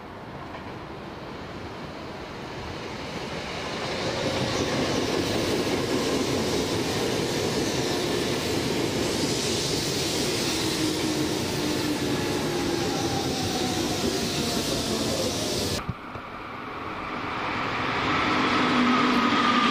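Electric commuter train approaching and running past the platform. The rumble of its wheels on the rails builds over a few seconds into a steady loud run, with a whine that falls in pitch as it goes by. After an abrupt cut about 16 seconds in, another train's sound grows louder with a steady whine.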